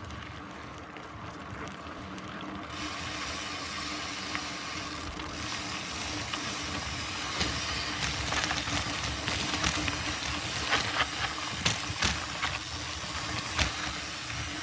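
Mountain bike rolling fast along a dirt trail: a steady rush of tyre noise and wind on the microphone that gets louder about three seconds in, with a run of sharp clicks and knocks from the bike rattling over bumps in the second half.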